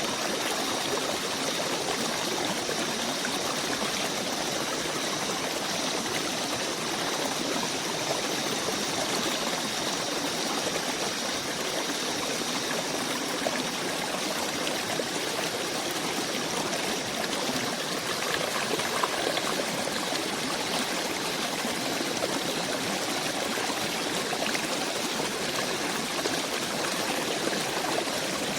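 A small stream running and trickling steadily, with two faint high steady tones over it through about the first half.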